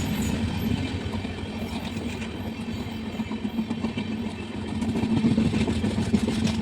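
Train running with a steady low rumble and a humming tone, getting louder about five seconds in.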